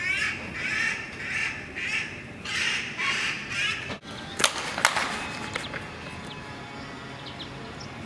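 Birds calling in a loud repeated series, about one call every three-quarters of a second, stopping about four seconds in. A few sharp clicks follow about a second later.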